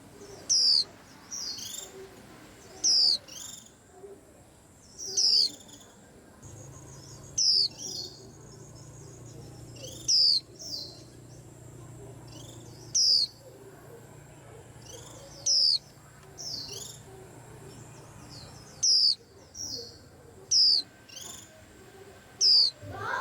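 White-eyes chirping: loud, sharp, high calls repeated about every two to three seconds, with softer twittering in between. A faint low hum runs through the middle.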